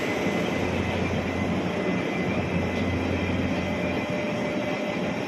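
Taiwan Railway passenger coaches rolling slowly past along the platform track: a steady rumble of wheels on rail with a thin, steady high tone.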